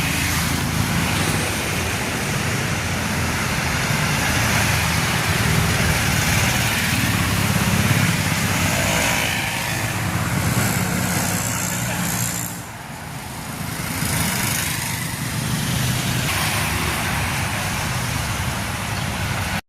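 Heavy vehicle engines running steadily, with a brief drop in loudness a little past the middle.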